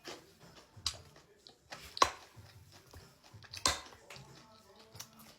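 Close-up eating sounds: chewing, with three sharp clicks or taps about a second in, two seconds in and near the end.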